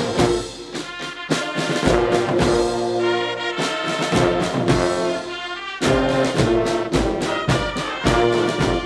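Military brass band playing, with sustained brass chords over regular drum beats.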